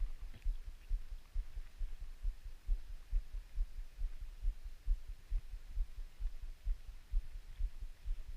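Low, uneven thumping rumble, several thumps a second, of wind buffeting the microphone.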